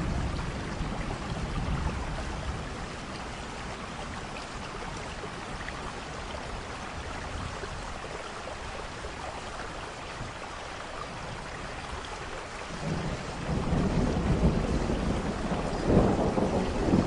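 Thunderstorm: steady rain with rolling thunder. A rumble dies away in the first couple of seconds, the rain runs on alone, then thunder builds again about two-thirds of the way through, peaking louder near the end.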